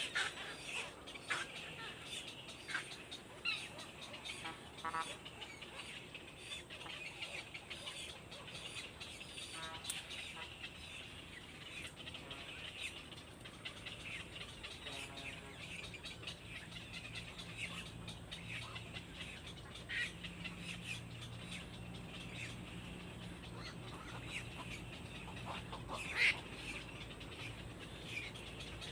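Birds chirping: many quick, high chirps and a few short calls, with a louder chirp near the end. A faint low hum comes in about halfway.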